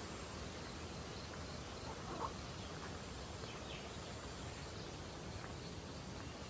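Steady outdoor ambient hiss with a few faint short chirps and one brief sharper sound about two seconds in.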